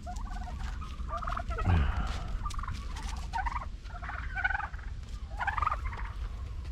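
Domestic turkeys gobbling, one rattling call after another, with a lower call sliding down in pitch about two seconds in.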